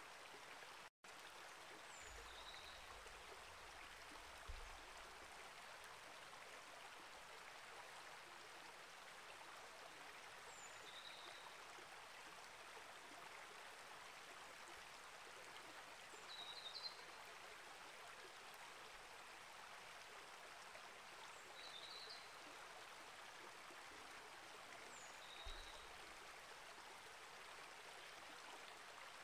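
A small rainforest creek flowing steadily, a soft even rush of water, with a few short, faint bird chirps scattered over it. The sound cuts out for an instant about a second in.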